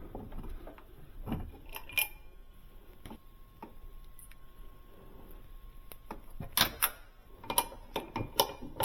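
A few scattered metal clicks and knocks at the refrigerator door hinge, then from about six and a half seconds a fast run of ratchet-wrench clicks as a hinge screw is backed out.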